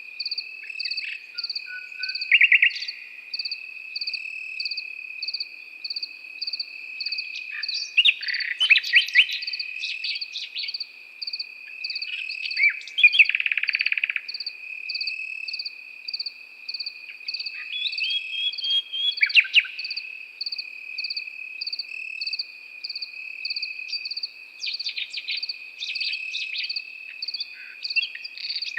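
Crickets chirping: one insect keeps up a continuous high trill and another chirps in even pulses about twice a second. Over them a nightingale sings short, varied phrases every few seconds.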